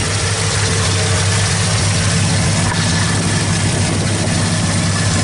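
Ford 302 (5-litre) V8 with a Holley four-barrel carburettor idling steadily, smooth and even.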